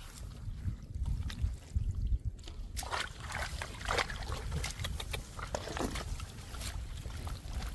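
Irregular splashing and squelching in shallow muddy water, over a steady low rumble.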